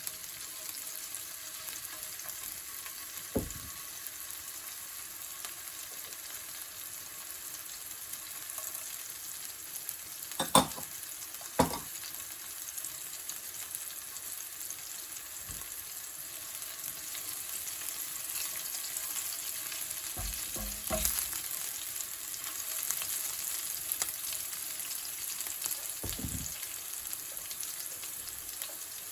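Sliced bird's eye chillies and fresh curry leaves sizzling in a little hot oil in a pan, the sizzle getting louder about halfway through. A few sharp knocks of a utensil against the pan.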